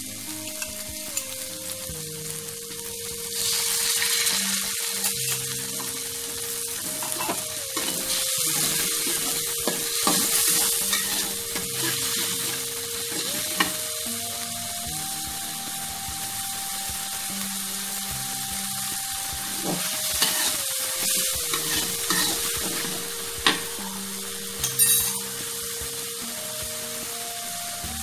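Food frying in hot oil in a pan while being stirred. The sizzle swells several times, and there are a couple of sharp clinks near the end.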